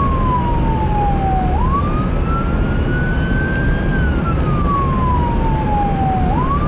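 Emergency vehicle siren on a slow wail: one tone that climbs quickly, keeps rising, then falls slowly, cycling about every five seconds. It runs over a steady low rumble of vehicle engine and road noise.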